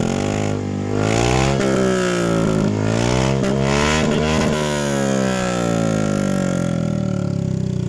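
Honda Airblade 150 scooter's single-cylinder engine revved through a Villain aftermarket muffler with its silencer insert removed. It runs up in several quick blips, rising in pitch over the first few seconds, then the revs fall slowly back to idle near the end.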